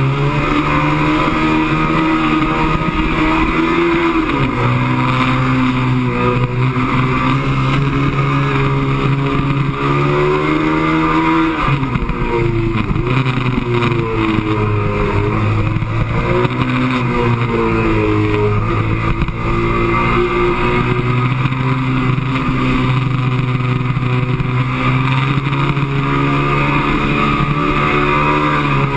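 Onboard sound of a sport motorcycle's engine lapping a race track at speed. The revs climb through the gears and drop sharply about four seconds in and again near the middle as the rider shifts and brakes for corners. Heavy wind rush sits under it all.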